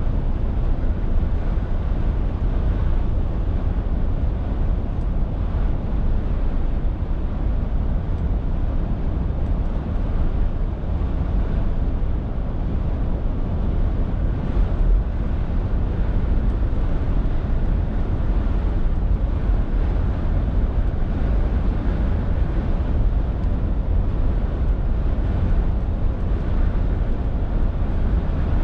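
Scania R450 lorry's 13-litre straight-six diesel running under way, a steady low drone with road and wind noise over it.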